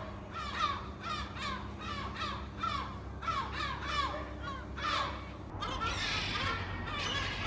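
A flock of gulls calling: many short cries falling in pitch, overlapping in a rapid run, with a brief lull about five and a half seconds in.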